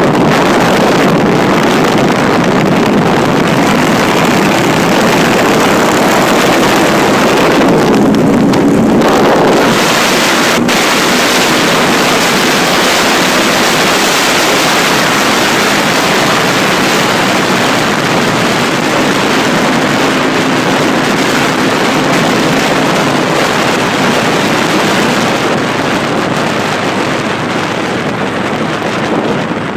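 Wind rushing hard over the microphone of a moving motorcycle, with the engine's steady note faintly audible underneath now and then.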